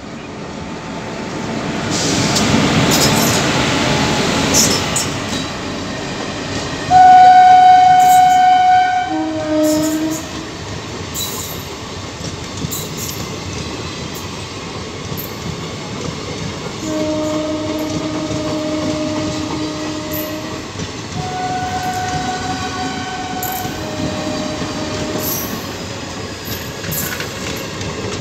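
Passenger train hauled by a WAP-4 electric locomotive passing close at speed, its coaches rumbling and clicking over the rails. The locomotive's horn sounds in long blasts on a higher and a lower note. It is loudest about seven seconds in, and blows again from about seventeen to twenty-five seconds.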